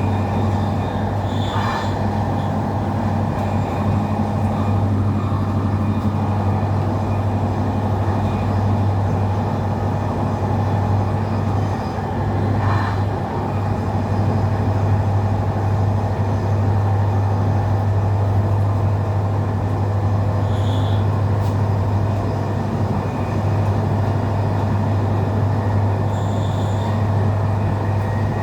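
Passenger train running, heard from inside the carriage: a steady low hum and rumble, with a few brief high-pitched squeaks spread through.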